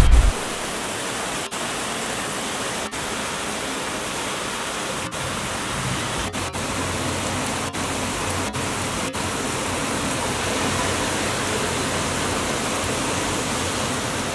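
Heavy rain pouring down: a steady, dense hiss, broken by several momentary dropouts. A brief low thump comes right at the start.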